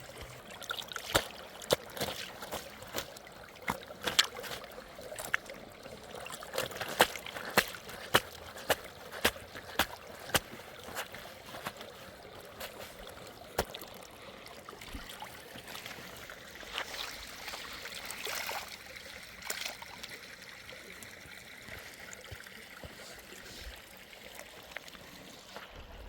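Water trickling, with a run of sharp clicks and knocks that come thick over the first half and thin out after.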